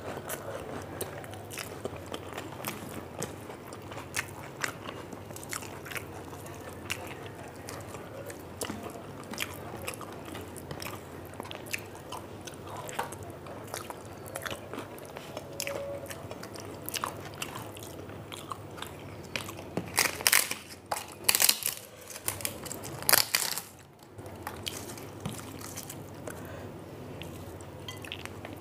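A person chewing and crunching crisp fried food close to the microphone, with many small crackles throughout and three much louder crunching bites about two-thirds of the way through.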